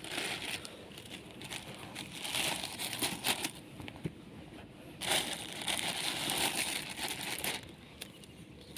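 Rustling and crinkling, in two longer stretches separated by a quieter spell.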